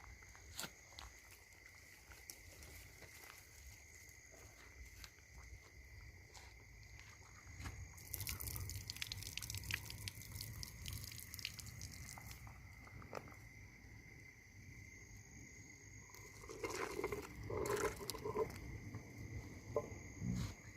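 Outdoor ambience with a steady high insect trill throughout, scattered small clicks and knocks, a stretch of hissy rustling about 8 seconds in, and a few louder handling noises near the end.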